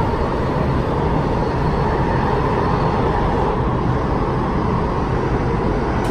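MTR West Rail Line train running at speed, heard from inside the car by the door: a steady rumble of wheels on rail with a faint steady hum above it.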